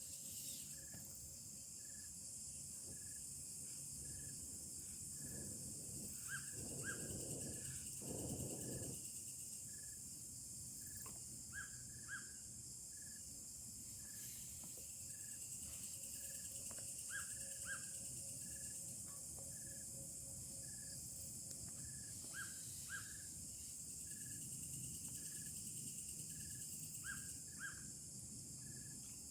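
Tropical forest ambience: a steady high drone of insects, with a short call repeating a bit faster than once a second and a quick paired chirp every few seconds. A louder rustling noise comes about six to nine seconds in.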